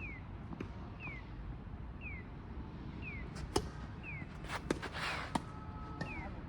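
Tennis balls being hit on a court: a few sharp pops in the middle. Under them a short high falling chirp repeats steadily about twice a second.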